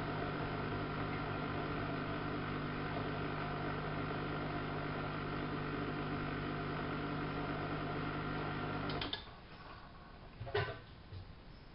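Siemens Siwamat IQ washing machine running with a steady hum that cuts off suddenly about nine seconds in, followed by a single click a second and a half later.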